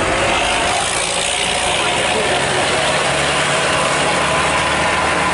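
Mitsubishi Canter truck's diesel engine running steadily, a low even drone under a loud wash of noise.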